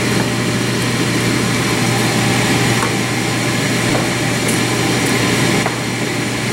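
Steady whir and hum of a fan or small motor, with a few faint clicks.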